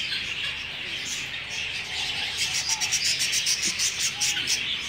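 A small bird chirping: a quick run of short, very high chirps, about ten a second, starting about two seconds in and lasting a couple of seconds, over a steady hiss.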